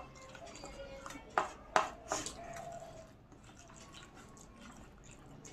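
Close-up eating sounds: sharp clicks and smacks about a second and a half and two seconds in, over faint music.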